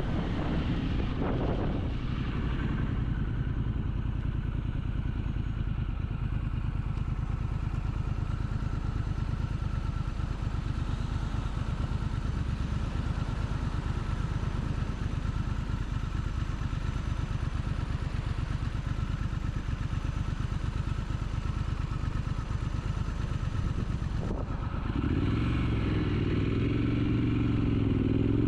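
Triumph Scrambler 900's parallel-twin engine running steadily under way. About 25 seconds in, the engine note rises and falls as it revs.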